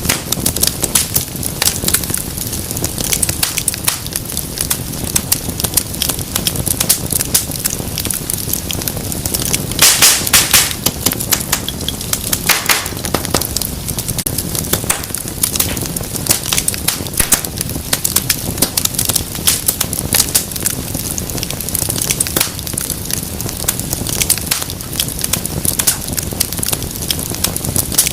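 Wood fire crackling and popping over a low rumble of flame, with a louder burst of sharp pops about ten seconds in and another a couple of seconds later.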